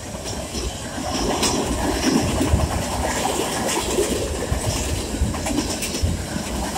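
Freight train's open-top hopper cars rolling past: a steady rumble of steel wheels on rail with a clickety-clack over the rail joints and scattered sharp clicks.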